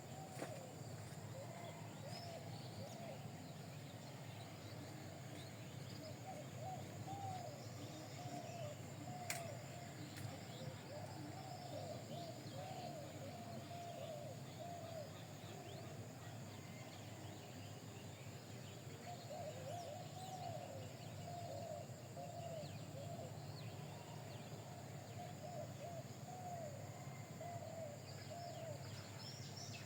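Birds chirping repeatedly in short, pitch-bending calls over a steady low hum, with a single sharp click about nine seconds in.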